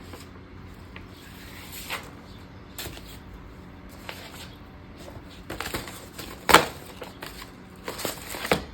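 Handling of planner papers and packaging: scattered rustles and light clicks of sheets being shuffled, with one sharper knock about six and a half seconds in.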